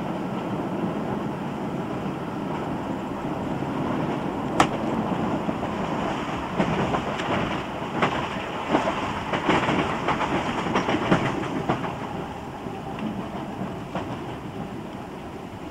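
Ride noise aboard a British Rail slam-door electric multiple unit, thought to be a Class 305, recorded on cassette: the steady rumble of the running train with clicks and knocks from the wheels over rail joints. There is one sharp click about four and a half seconds in, and a busier run of clicks in the middle that eases off near the end.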